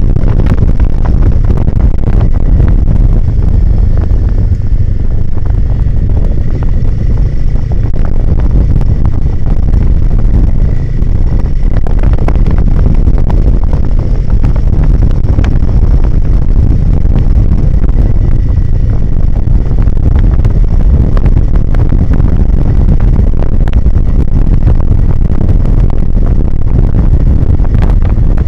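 Royal Enfield Himalayan 450's single-cylinder engine running steadily during a trail ride, heard as a loud, dense low rumble mixed with wind buffeting the microphone.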